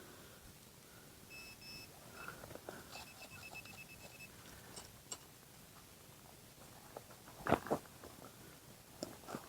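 Metal detector beeping over a shallow target: a couple of short high beeps about a second and a half in, then a quick run of beeps from about three to four seconds. A loud crunch, like a trowel digging into soil, comes near the end.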